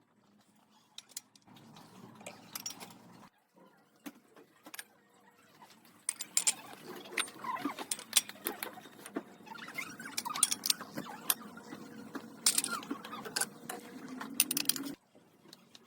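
Hands working in a café kitchen: many light clicks, taps and clinks of utensils and containers over a soft rustle, sparse at first and much busier from about six seconds in, cutting off suddenly near the end.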